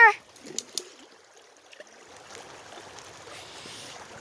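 Small creek running steadily, a faint even trickle of water, with two light clicks just under a second in.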